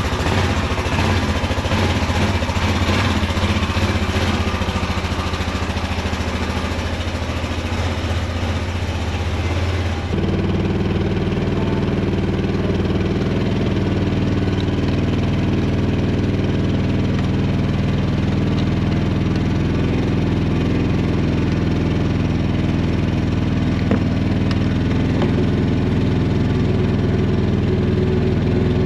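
Small gasoline engine running steadily. About ten seconds in, the sound changes to a smoother, even hum with less hiss.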